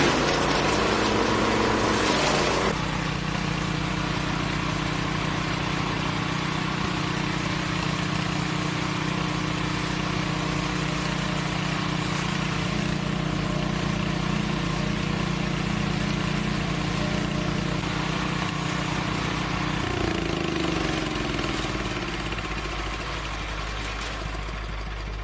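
A machine's engine runs steadily. About three seconds in its note changes and it drops a little in level. About twenty seconds in it slows, its pitch falling.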